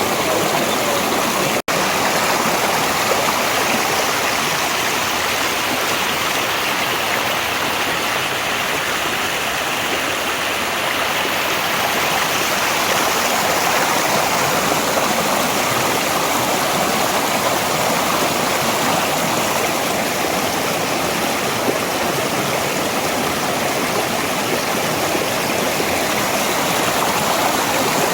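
Mountain valley stream rushing over rocks, a steady, even rush of water with a brief dropout about a second and a half in.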